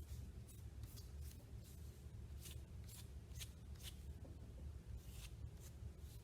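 Fork tines brushing paint onto construction paper in a series of short, faint scratchy strokes, about two a second and a little irregular, over a steady low hum.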